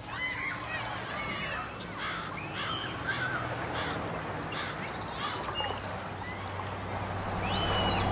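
Birds calling over a steady rushing noise: many short calls that rise and fall in pitch, with one longer, higher call that falls near the end.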